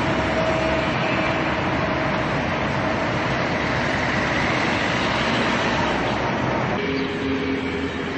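Steady noise of a running vehicle, which drops a little and shifts in tone about seven seconds in.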